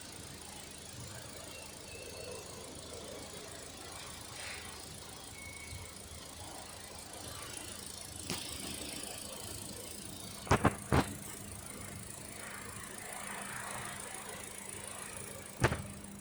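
Holden Cruze 1.8 litre four-cylinder petrol engine idling steadily, with a few sharp knocks: three close together about ten seconds in and one near the end.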